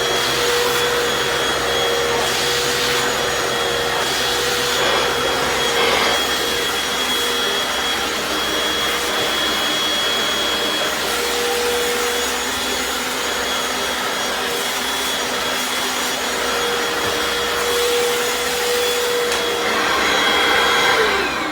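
Hoover FloorMate hard-floor wet cleaner running with a steady motor whine over a rushing suction noise as it is pushed over tile. Near the end it is switched off and the whine winds down.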